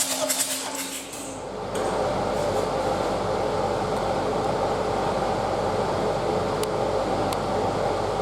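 Renault Trafic 1.9 dCi F9Q four-cylinder diesel engine on a test stand: the rhythmic starter cranking stops about a second in, and the engine runs steadily from shortly after.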